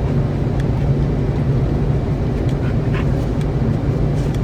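Steady road and engine noise inside a moving car's cabin, a constant low hum under an even rumble.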